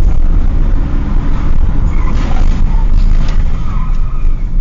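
Loud, steady low rumble of road vehicles, with faint brief sounds higher up partway through.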